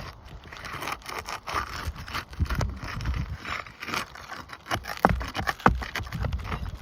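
Scraping and prying under asphalt roof shingles as roofing nails are worked loose and pulled out, with irregular clicks and two sharp knocks a little after five seconds in.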